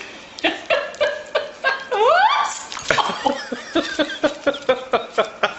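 A person laughing in a run of short, quick bursts, about five a second in the second half.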